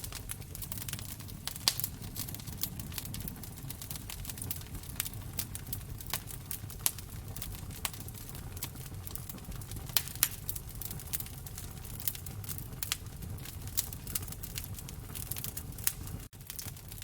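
Wood fire crackling in a fireplace: irregular sharp pops and snaps over a low steady rumble of the flames, with a momentary dropout near the end.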